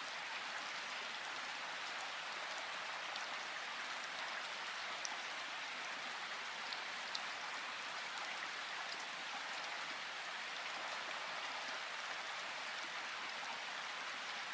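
River water rushing and splashing steadily, with a few faint, short high ticks or chirps about five and seven seconds in.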